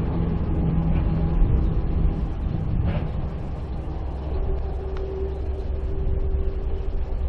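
Motor vehicle engine running, a steady low rumble with a droning tone that fades out about two seconds in, then a different steady tone coming in after about four seconds.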